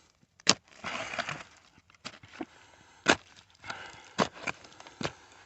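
Hand digging through dirt and broken glass: a digging tool scraping and chopping into the ground, with several sharp knocks as it strikes glass or rubble.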